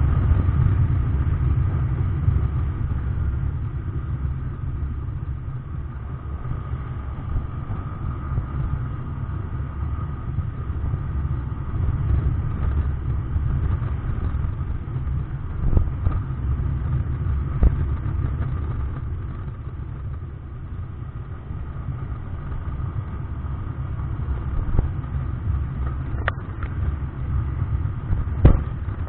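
SYM Joymax Z+ scooter's single-cylinder engine running under way, heard through a helmet-mounted camera with a steady low rumble of wind on the microphone. A few brief knocks stand out, two of them near the end.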